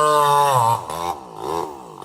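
Two-stroke chainsaw engine revving: held at a high, steady pitch, then the throttle eases off under a second in, and the pitch dips and rises in quick blips.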